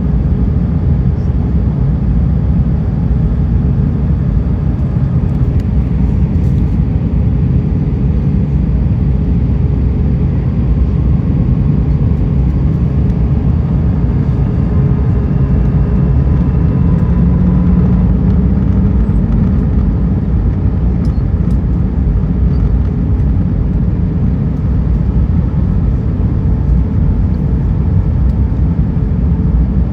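Steady low rumble of cabin noise inside an Airbus A320, the engines and airflow heard from a window seat, with a faint steady hum over it.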